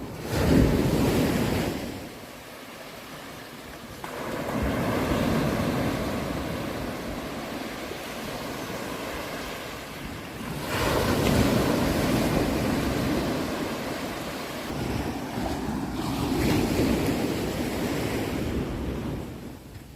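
Sea surf: waves breaking and washing in, the rush swelling and fading four times, about every five seconds.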